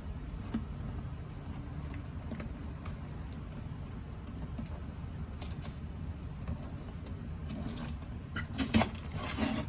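Steady low background hum with scattered light clicks, then rustling and scraping as the shipping box holding the live bird is handled, loudest near the end.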